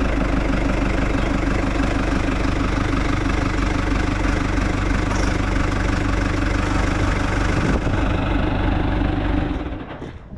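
New Holland TL90 tractor's four-cylinder diesel engine idling steadily, dying away near the end.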